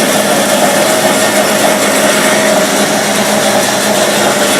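Engine running steadily at high revs, a loud, even drone with a constant high tone and no revving up or down.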